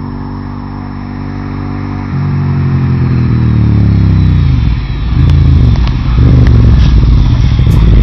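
Suzuki SV1000S 90-degree V-twin engine through Viper race-can exhausts, growing louder as the bike comes closer. Its pitch falls about three to five seconds in, with a brief dip in level about five seconds in, and it is loudest near the end.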